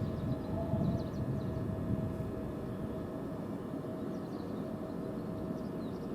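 Electric train running with a low rumble and a steady hum, with faint chirps of small birds.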